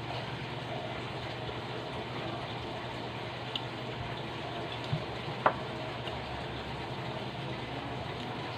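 Steady sound of running water, like a container filling, over a low hum, with a few faint clicks around the middle.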